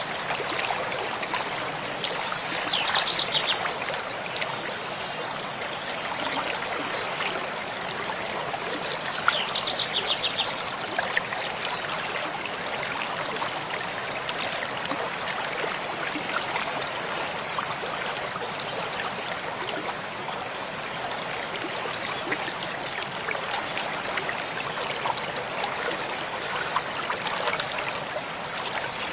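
Mountain stream flowing steadily, with a small bird singing twice: a short song of rapid repeated high notes about two seconds in and again about nine seconds in.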